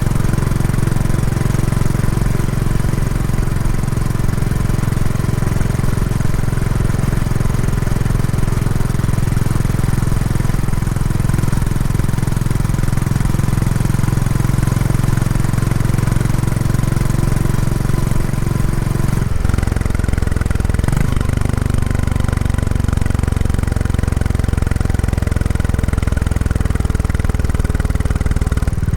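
Royal Enfield Classic 350's single-cylinder engine running through its stock exhaust while riding, a steady low thrum during break-in. About two-thirds of the way in the engine note drops and settles at a new steady pitch.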